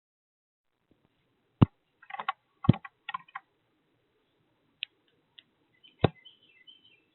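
Birds at a feeder: three sharp knocks, with quick bursts of short chirps about two to three seconds in and a few high chirps near the end.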